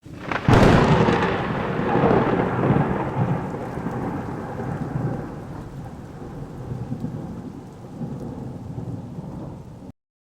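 Thunderclap with rain: a sharp crack about half a second in, then a long rolling rumble over a rain hiss that slowly fades and cuts off abruptly near the end.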